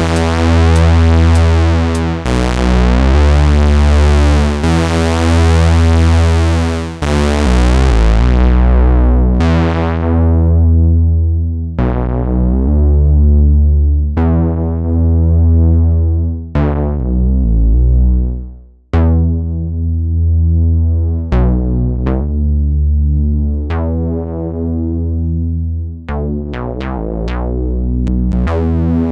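A low synthesizer line played through the Swenigiser Proto VCF/A Eurorack filter, the input driven hot for a gritty tone. For the first several seconds the notes are bright with the filter open. Then each note starts bright and quickly goes dull as the filter closes. About two-thirds of the way through the sound fades to almost nothing and starts again, and quick repeated notes come near the end.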